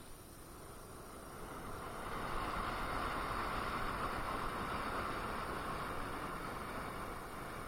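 A rushing road and wind noise heard while riding an electric unicycle. It swells about two seconds in, holds, and eases slightly near the end.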